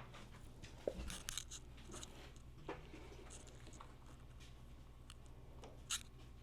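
Scattered light clicks and rustles of hands and tools working on motorcycle parts, with a sharp click about a second in and another near the end, over a steady low hum.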